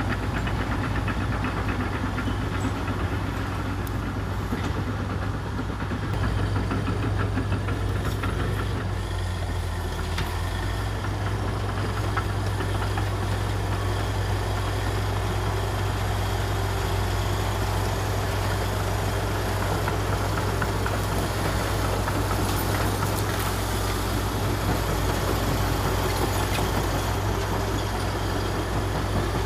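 Komatsu D61EX bulldozer's diesel engine running steadily, its note shifting slightly about six seconds in and again about ten seconds in.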